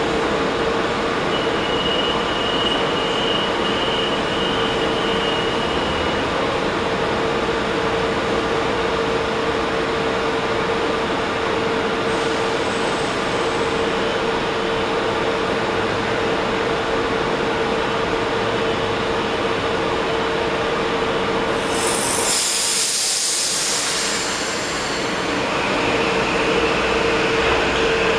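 M8 electric multiple-unit train standing at the platform with a steady hum, a high tone sounding for a few seconds near the start. About 22 seconds in there is a loud hiss of air, and then the train starts off with a high whine.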